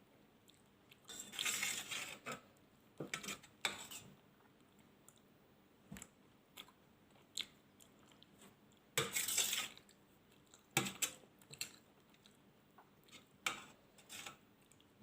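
Close-miked eating of Indian home-cooked food: irregular bursts of chewing and biting, loudest about a second in and again about nine seconds in, with short sharp clicks scattered between them.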